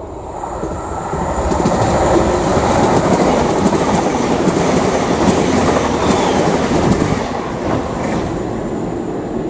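A GWR Intercity Express Train runs through the station at speed without stopping. The wheel and rail noise builds over the first couple of seconds and stays loud while the coaches pass, with three brief high chirps in the middle, then eases off near the end.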